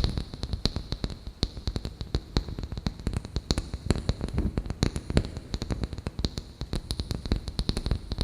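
Fingers tapping quickly on a wooden lid: a fast, uneven string of sharp wooden taps.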